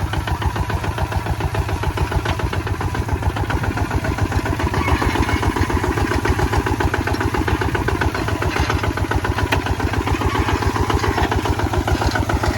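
Kubota ZT 155 single-cylinder diesel engine running steadily, with an even run of firing pulses.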